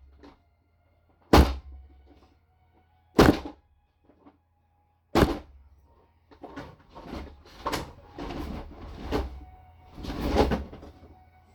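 Three sharp thuds about two seconds apart, then a quicker run of smaller knocks and scuffs: toys being banged and moved against a hard surface.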